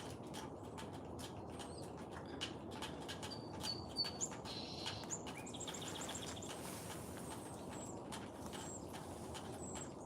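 Small songbirds chirping: scattered short high chirps and a few quick trills, over steady low background noise.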